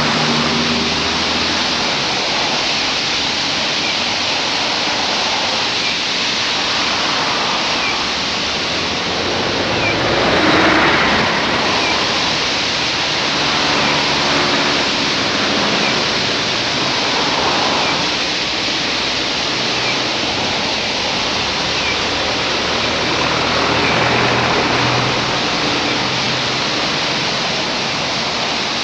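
A loud, steady rushing noise, with the hum of vehicles coming and going underneath and a few faint chirps.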